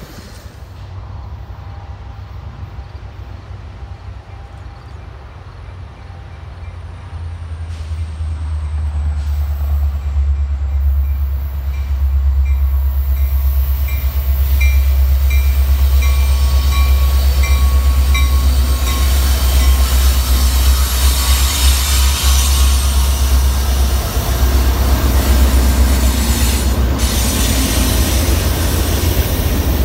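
A diesel freight train led by a CSX EMD SD70MAC approaching and passing close by. The locomotives' low engine rumble builds over the first dozen seconds, then the cars roll past with a steady rush and rattle of wheels on rail.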